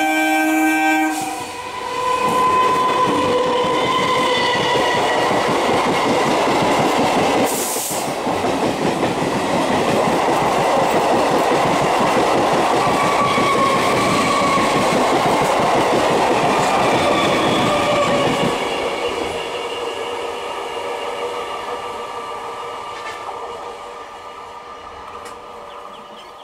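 Electric multiple unit (EMU) local train passing at speed close by. Its horn ends about a second in, then comes the loud rumble and clickety-clack of the wheels on the rails with steady whining tones over it, and a brief sharp hiss about eight seconds in. After about 18 seconds the sound fades away as the train recedes.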